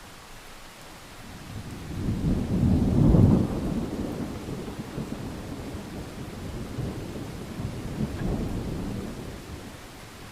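Thunder rumbling over steady rain. The rumble builds about a second and a half in and is loudest around three seconds. It rolls on with a second swell near eight seconds and dies away near the end.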